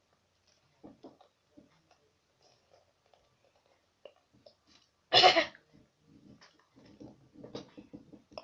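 Faint wet mouth clicks from sucking on Toxic Waste sour hard candy, then one short, loud cough about five seconds in, followed by more chewing and mouth noises.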